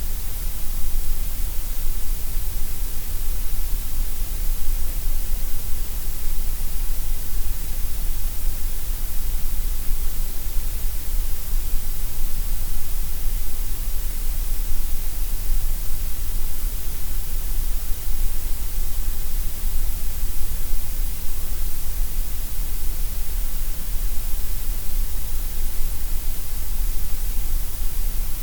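Gray noise: a steady, unbroken hiss with no tones or changes, heavier in the deep bass and the treble than in the middle.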